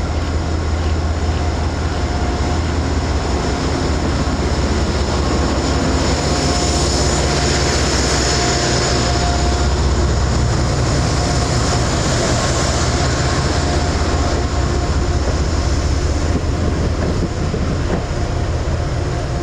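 A Metro-North passenger train hauled by P32AC-DM locomotives moving past, with a steady low rumble. A high whine over it grows strongest in the middle and then eases off.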